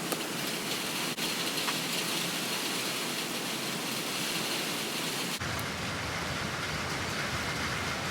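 Steady rain falling, an even hiss. About five seconds in the sound changes abruptly and a deeper rain noise comes in.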